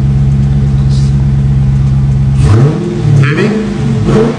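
Chevrolet Corvette C8's V8 engine idling steadily, then revved in several quick throttle blips, its pitch rising and falling, from about halfway through.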